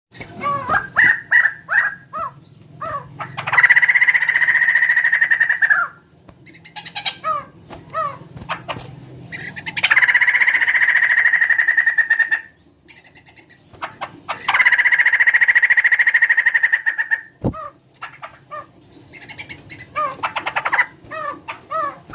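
A laughingthrush (poksay) calling. It gives runs of short, quick up-slurred notes, broken three times by a long, harsh, rattling call of two to three seconds, a loud voice likened to a chicken's.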